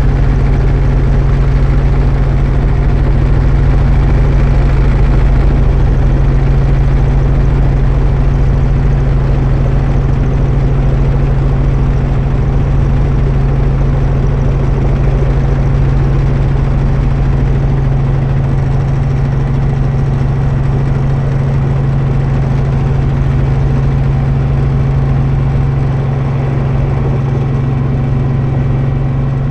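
Helicopter running steadily in flight: a loud, constant drone of engine and rotor.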